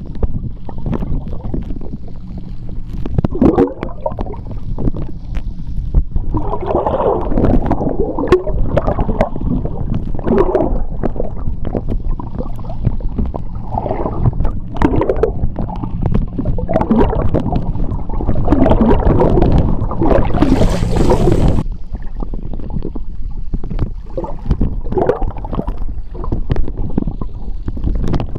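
Seawater heard underwater through a submerged phone microphone: a steady low churning rumble with irregular swells of gurgling bubbles. About twenty seconds in, a brief hiss spreads up to the highest pitches for a second or so, then drops away.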